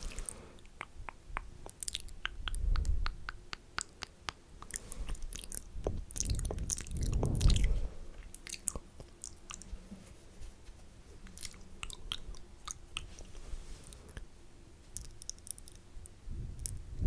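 Close-up wet mouth sounds into a sensitive microphone: quick tongue and lip clicks and smacks, with two heavier, muffled low swells about three and seven and a half seconds in, as of the mouth pressing right on the mic.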